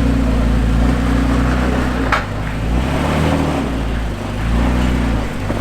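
Off-road truck engine working at low speed, its revs swelling and easing several times as it crawls over rock, with one sharp knock about two seconds in.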